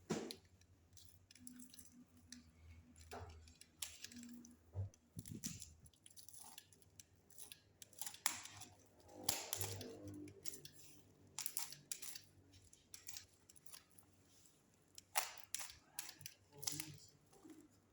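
Parcel packaging being cut and torn open by hand: scattered clicks, crinkles and short bursts of cutting and rustling.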